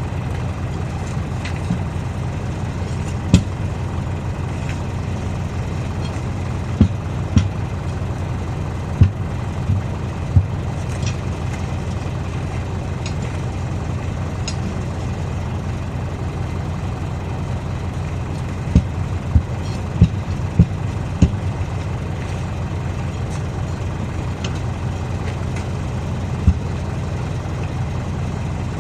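Diesel engine idling steadily, with scattered sharp knocks every few seconds.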